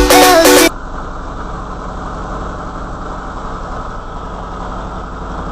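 Background music cuts off abruptly less than a second in, leaving a steady low rumble with a faint hum.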